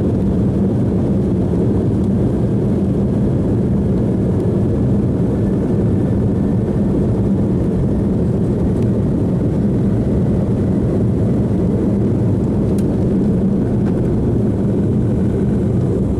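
Cabin sound of an Embraer E190's twin GE CF34-10E turbofans at takeoff power: a steady deep roar with a low hum, heard from inside the passenger cabin during the takeoff and initial climb.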